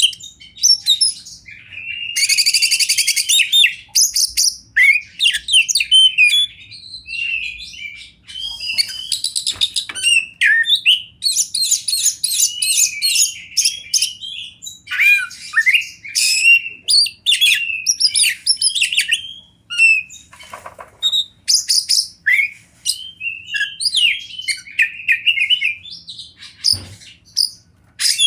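Oriental magpie-robin (kacer) singing a long, varied song of whistled notes, quick trills and harsh buzzy phrases, broken by short pauses.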